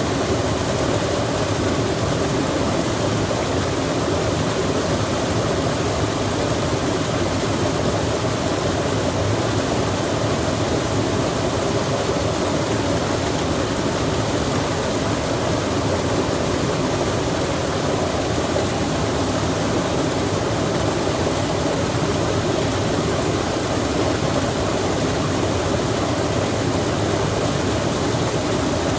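Steady, unbroken rushing noise of a mountain-forest soundscape, even and unchanging throughout.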